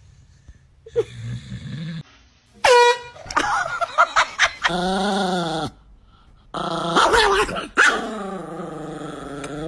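Dog vocalizing: a low grumble about a second in, then a series of long, wavering howl-like cries.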